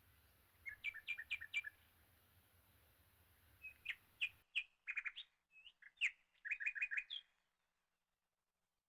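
Songbird chirping in quick runs of short, high notes: one brief run about a second in, then a longer series of chirps from about four to seven seconds.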